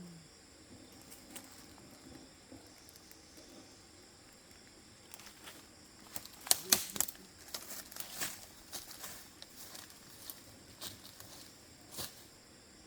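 Crackling and rustling of dry plant material being handled or stepped through, in a run of sharp snaps about halfway through, with one more near the end. Insects chirr steadily and high-pitched underneath.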